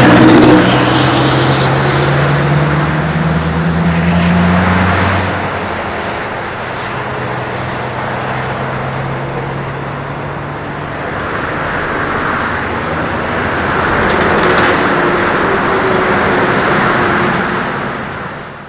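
Scania R730's V8 diesel engine through a side-mounted exhaust pipe pulling away, its low note rising slightly for about five seconds and then fading into the distance. Road traffic noise remains and swells again as another vehicle passes later on.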